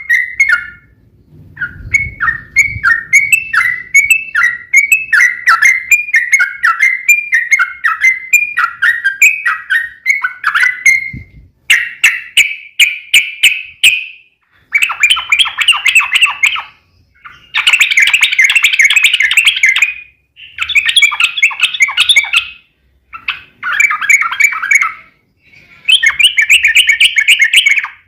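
Yellow-vented bulbul (trucuk) singing loudly. For the first dozen seconds it gives a run of quick repeated chirpy notes, then a series of fast chattering trills, each lasting about two seconds, with short pauses between.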